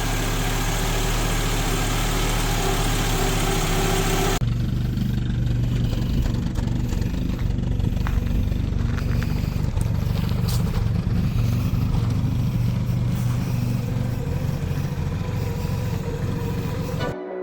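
Carburetted VW GTI four-cylinder engine idling steadily for about four seconds. Then, after an abrupt change, a different, deeper engine sound with a few faint clicks runs on until music starts at the very end.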